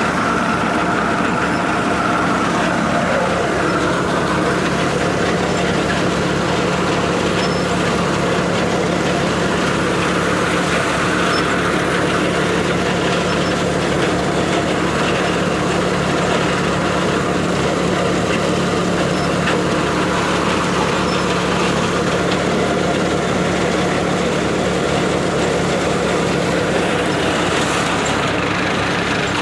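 Massey Ferguson tractor engine running steadily under load, driving a thresher, with a constant low hum and the machine's even clatter.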